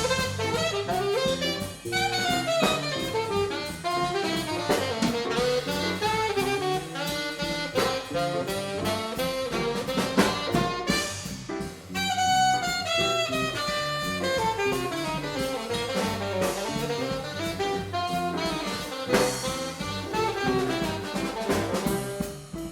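Live jazz: a saxophone playing melodic lines over a drum kit and a steady bass line.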